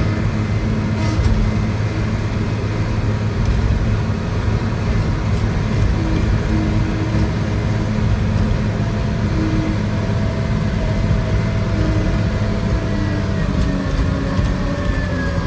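An engine running steadily, a constant low drone with no let-up.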